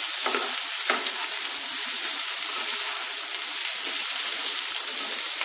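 Diced potatoes sizzling in mustard oil in a non-stick wok over raised heat, browning as they fry, while a wooden spatula stirs them, with a couple of light spatula scrapes around the first second.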